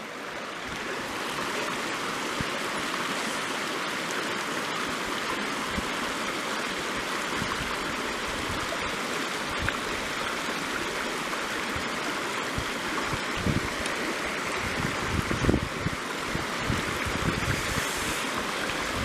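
Mountain headwater stream running steadily over rocks, with a few low thumps on the microphone in the second half.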